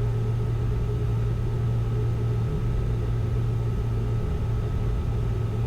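Steady low drone inside the cockpit of a Learjet 60 jet on short final with gear down and full flaps: airflow and turbofan engine noise.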